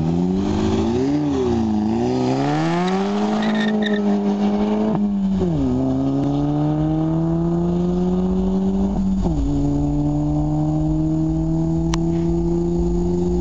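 Seat Leon 1.8 TSI turbocharged four-cylinder with a Magnaflow catback exhaust, accelerating through the gears. The engine note climbs steadily in pitch, drops sharply at two upshifts (about five and a half seconds in, and again about nine seconds in), and climbs again after each.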